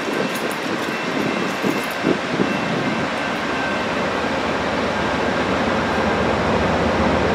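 Passenger train approaching the station, a steady rumble of engine and wheels growing gradually louder as it nears.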